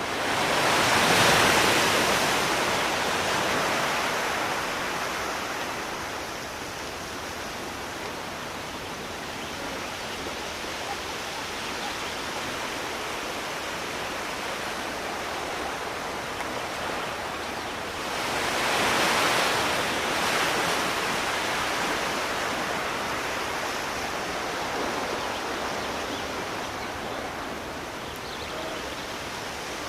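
Sea waves breaking on the shore twice, each crash swelling quickly and then washing out over several seconds, with a steady hiss of surf in between.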